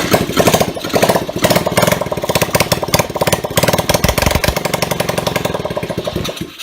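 A 125cc pit bike's single-cylinder four-stroke engine running with no exhaust fitted, a loud rapid open-port bark that surges unevenly early on, then cuts off suddenly near the end. It runs roughly; in the owner's words it starts up but doesn't run good yet.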